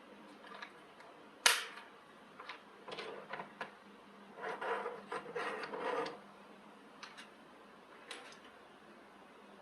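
Parts or tools being handled in a workshop: a single sharp click about one and a half seconds in, a few knocks, then a run of small clatters and rattles for a second or two, and one more click near the end.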